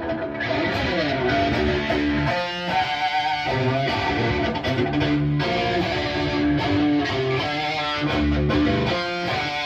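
Distorted electric guitar played through a Bogner Uberschall high-gain preamp module, playing riffs of sustained notes and chords, with a note bent in pitch about a second in and brief breaks between phrases.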